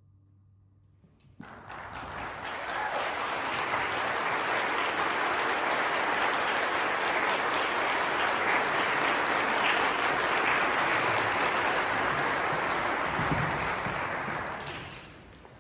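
Audience applauding: after a brief hush the clapping starts suddenly about a second and a half in, holds steady, and dies away near the end.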